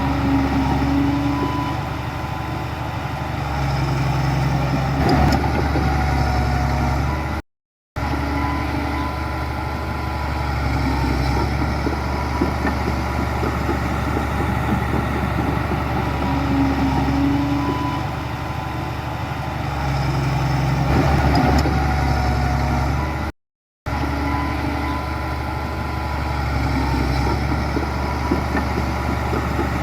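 Diesel engines of heavy earthmoving machinery running steadily, with some engine-speed swells. The sound cuts out to silence twice for a fraction of a second.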